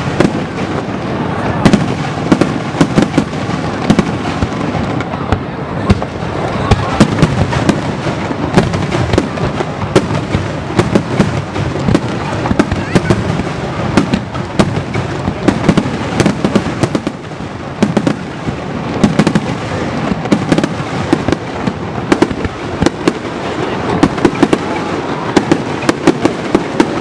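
Fireworks display: a dense run of sharp bangs, often several a second, over steady crackling.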